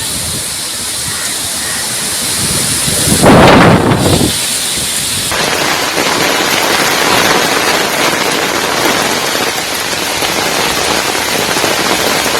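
Storm of gusty wind and rain: a loud, steady rushing noise, with a louder surge lasting about a second just after three seconds in.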